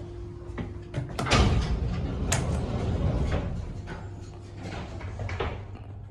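Doors of a 1973 Otis traction service lift sliding: clicks, then a sudden louder clatter from about a second in that runs to about three and a half seconds, then a few more clicks.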